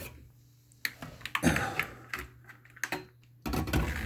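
Irregular clicks and knocks of hands handling the parts of a boxed air-conditioner unit, busiest in the middle and again near the end.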